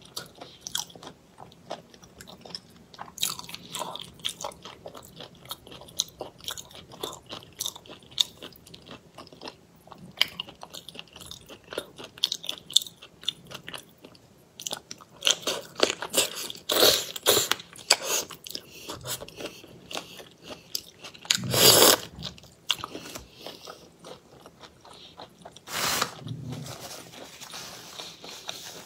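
Close-miked eating of spicy seafood in chili oil: many small wet clicks and crunches of biting and chewing, with louder bursts about halfway through and near 22 and 26 seconds.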